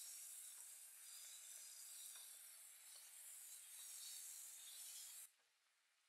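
Faint sizzling of potato and tomato pieces frying in oil, with a wooden spatula rubbing and scraping through them in the pan. The sound cuts off suddenly about five seconds in.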